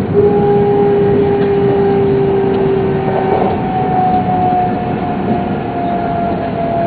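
Interior running noise of a Shinkansen train at speed on a viaduct: a steady deep rumble with a whine over it that falls slowly in pitch, and a second, lower whine that stops about a third of the way through.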